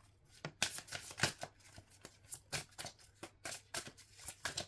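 A deck of tarot cards being shuffled by hand: a quick, irregular patter of card clicks and riffles, about four or five a second.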